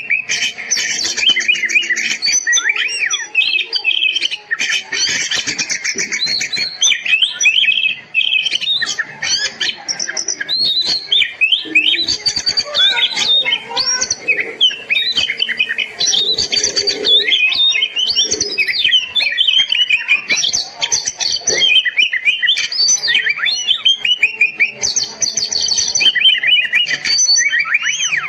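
Oriental magpie-robin (kacer) singing a continuous, varied song of rapid whistled notes, chirps and trills that rise and fall.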